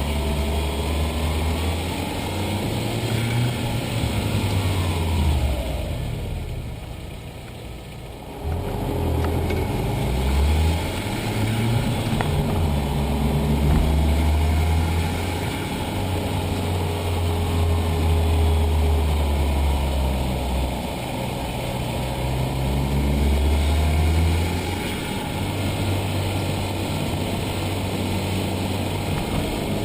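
B5 Audi A4 1.8T quattro's turbocharged four-cylinder engine running, its pitch rising and falling repeatedly, with a brief quieter stretch about seven seconds in. Somewhere in it is an odd noise that the owner cannot pin down.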